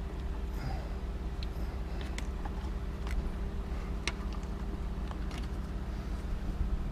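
Steady low hum with a few faint, light clicks and taps scattered through it, from hands working plastic vacuum hose fittings and connectors on a Ford F-150's four-wheel-drive vacuum system.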